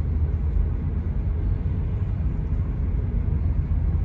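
Steady low rumble of a 1995 Toyota Carina E with the 1.6-litre 16-valve engine on the move: engine and road noise heard from inside the car.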